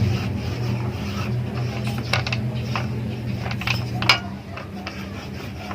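Several light metallic clinks and taps, the sharpest about four seconds in, over a steady low hum that fades out just after it.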